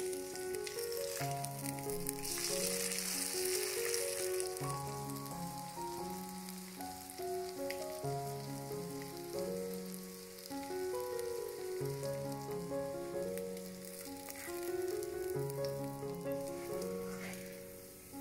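Grated potato and sausage patties sizzling in oil in a frying pan, the sizzle strongest in the first few seconds. Background music of slow held notes plays throughout.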